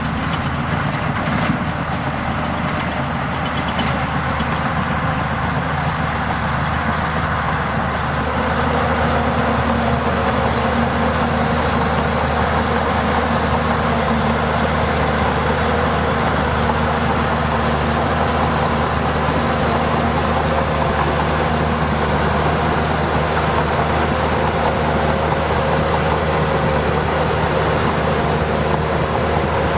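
Diesel engine of heavy earthmoving machinery running steadily with a low, even drone, getting louder about eight seconds in.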